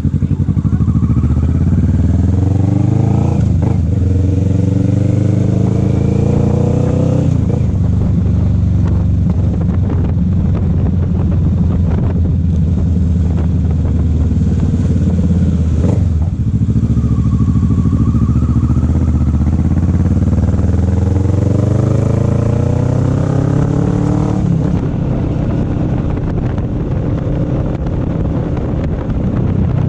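Motorcycle engine running on the road, its pitch climbing steadily as it accelerates and dropping sharply at gear changes about seven seconds and about twenty-four seconds in.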